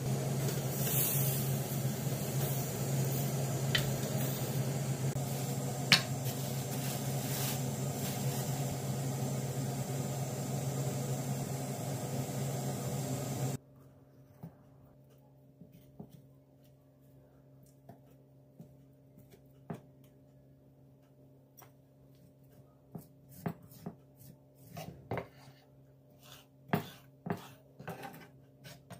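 A steady machine noise with a low hum, which cuts off suddenly about halfway through. Light clicks and knocks of kitchen things being handled follow, growing busier near the end.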